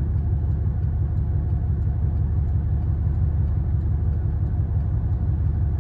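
Car engine and exhaust rumbling steadily, heard from inside the cabin: a loud, low drone.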